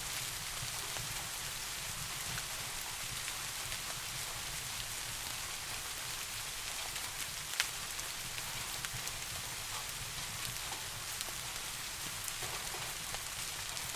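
Steady soft rain falling, an even hiss with scattered sharp drop ticks, one louder tick about halfway through.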